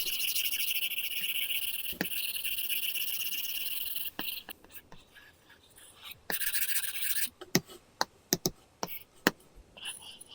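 Apple Pencil nib scratching across a paper-texture matte screen film on an iPad Pro in long drawing strokes. It is a steady scratchy hiss for the first four seconds, with another stroke about six seconds in. The second half holds a run of sharp taps of the pencil tip on the screen.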